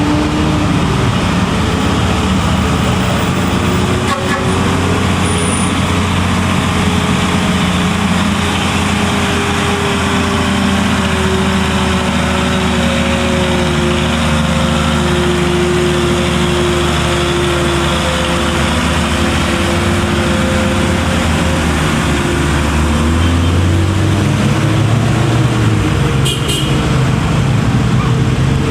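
Heavy truck's diesel engine pulling under load, its pitch sagging slowly and then rising again near the end, over steady road noise.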